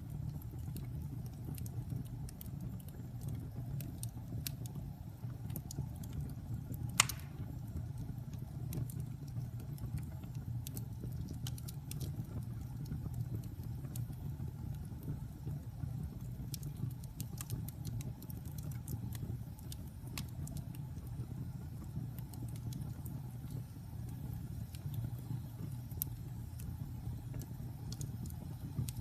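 Wood fire burning in a fireplace: a steady low rumble of flames with scattered small crackles and one louder pop about seven seconds in.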